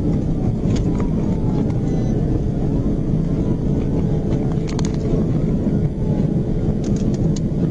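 Steady road and wind noise of a police patrol car driving at high speed, with a few faint clicks.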